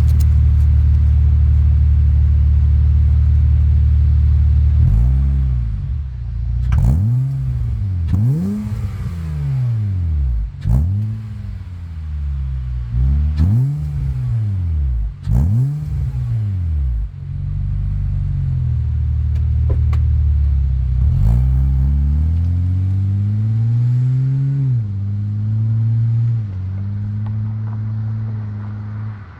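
Acura TL's V6 exhaust, fitted with a custom Tsudo muffler on 2.5-inch tubing with the mid muffler deleted and the stock resonator kept. It idles, then is revved about five times in quick succession, each rev rising and falling in pitch. Near the end it holds at a raised speed, then steps back down.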